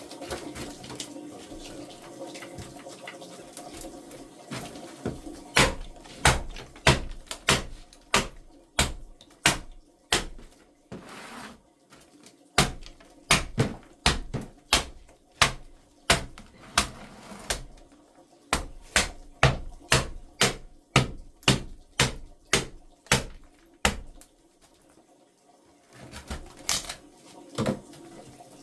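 A long run of sharp knocks, about two a second, with a short break partway through and a longer pause near the end before a few more.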